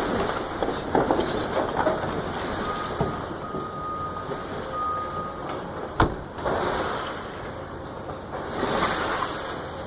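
House demolition: continuous crunching and crackling of debris being broken up by heavy machinery, with a sharp crack about six seconds in. A faint thin whine sounds between about three and five and a half seconds in.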